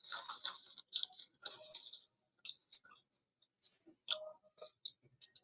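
Quiet chewing of a mouthful of spam musubi: irregular soft crunches and mouth clicks, busiest in the first two seconds, then a few scattered clicks.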